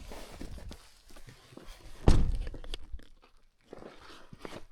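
Small handling knocks and rustles, with one heavy thump about two seconds in.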